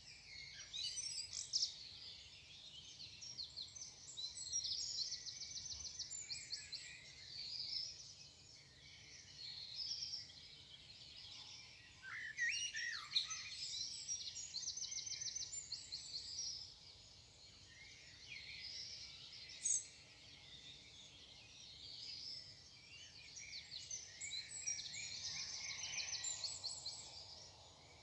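Morning chorus of songbirds: overlapping chirps and songs, with quick repeated trills coming back every few seconds and a lower, swooping call about halfway through.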